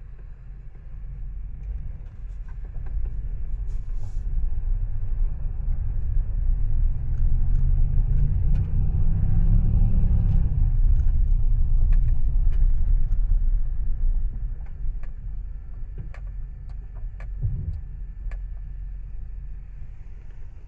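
1998 GMC Savana's 5.7-litre Vortec V8 running with a low rumble that swells louder for several seconds in the middle, with scattered light clicks over it.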